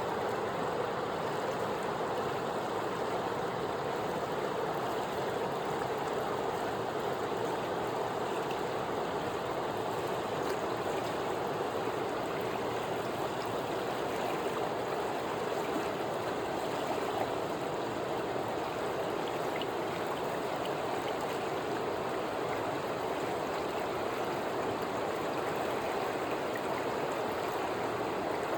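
Mountain river flowing over rocks: a steady rush of water.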